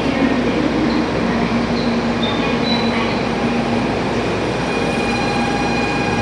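Shinkansen train sound: steady, continuous noise with a low hum and a few fainter steady tones above it.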